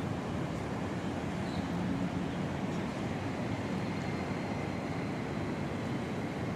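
Steady street background noise: a continuous low rumble of traffic, with no single event standing out.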